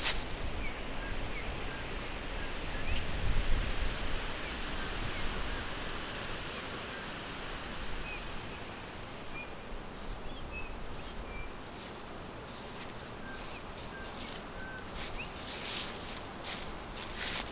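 Forest ambience: a steady rustling hiss of wind in the leaves with faint, scattered short bird chirps and whistles throughout, and bursts of louder rustling near the end.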